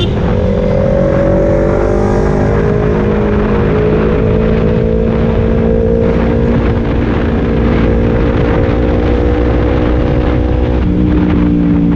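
Kawasaki Z250's parallel-twin engine running through a Leovince Cobra aftermarket exhaust. The engine note climbs slowly over the first few seconds, holds steady, then drops near the end.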